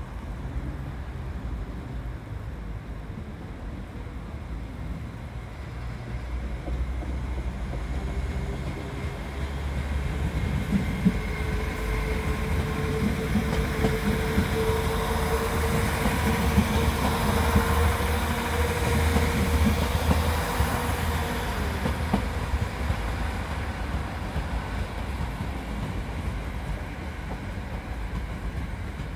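Passenger trains moving through a station throat. A Northern multiple unit draws by with a low running rumble and a steady whine, louder in the middle, and its wheels clatter over the points. It fades as a TransPennine Express Class 802 passes more quietly near the end.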